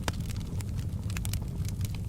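Fireplace crackling: frequent irregular sharp pops and snaps over a steady low rumble.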